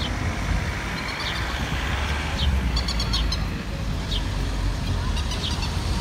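Small birds chirping, short high calls scattered throughout with a quick run of repeated notes about three seconds in, over a steady low rumble.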